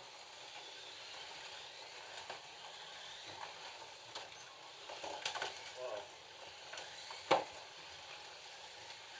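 Slot cars running on the track: a steady hissing whir of their small electric motors and tyres, with scattered light clicks and one sharp clack a little past seven seconds in.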